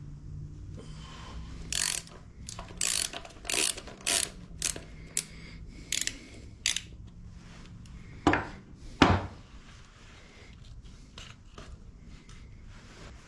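Hand ratchet wrench clicking in a series of short strokes, about one every half second or so, followed by two louder strokes a little later.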